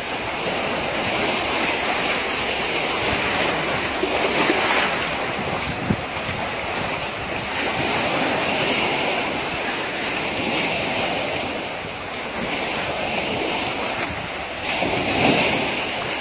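Sea waves washing at the shore, with wind rushing on the microphone: a steady, even noise.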